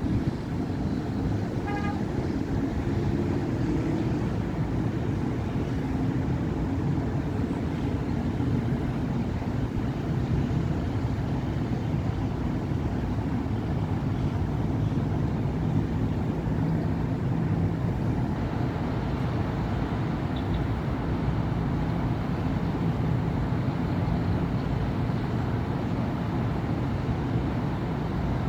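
Steady city avenue traffic: car and bus engines and tyres passing continuously. A short horn toot sounds about two seconds in.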